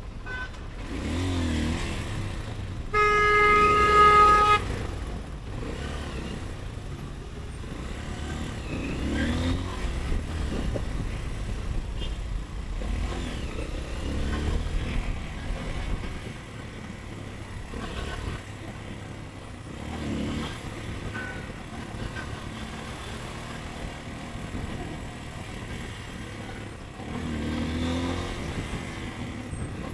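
Motorcycle engine accelerating again and again, its pitch climbing and dropping with each gear, over city traffic and road noise. A vehicle horn sounds loudly for about a second and a half a few seconds in.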